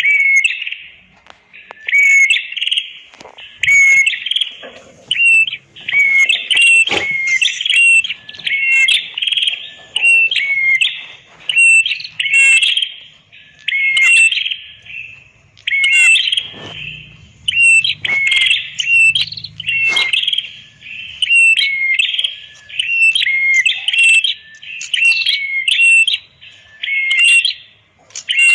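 Red-headed prenjak (prenjak kepala merah) calling in a busy, loud run of sharp chirps, about one burst a second with short pauses, each burst carrying a quick dipping note.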